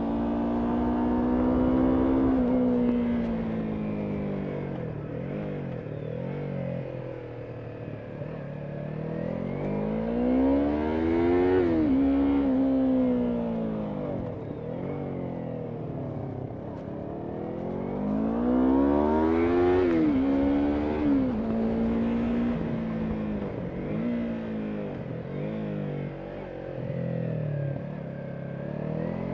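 Yamaha MT-03's 321 cc parallel-twin engine pulling uphill. Its pitch climbs and drops several times as the rider accelerates, shifts gear and backs off, with a low rumble of wind underneath.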